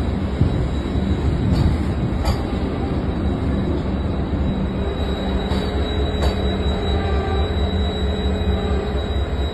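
Vande Bharat Express electric multiple-unit train rolling slowly past along the platform: a steady rumble with a thin whine over it. There are two pairs of sharp clicks, the first about two seconds in and the second about six seconds in.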